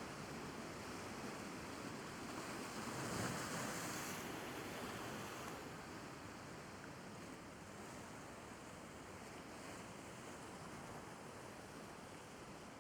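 Sea waves washing against the shore: a steady hiss of surf that swells to a peak about three seconds in and then slowly falls away.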